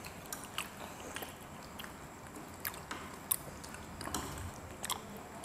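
Quiet chewing of a mouthful of food close to the microphone, with scattered small clicks from the mouth and from a fork against a plate.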